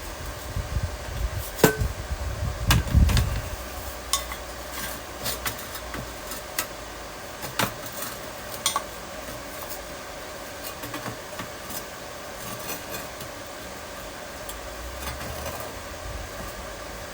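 Scattered sharp metallic clinks and taps, most in the first half, over the steady hum of a small inverter welder's cooling fan running while switched on.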